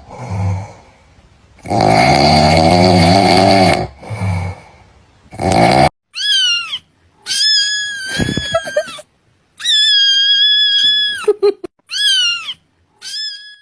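Cat meme sound clips: first a few long, low, wavering sounds, then a string of cat meows, several falling in pitch and two long drawn-out ones.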